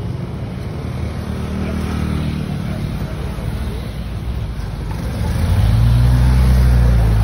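Motorcycle engines running close by, a steady low hum that grows louder about five seconds in.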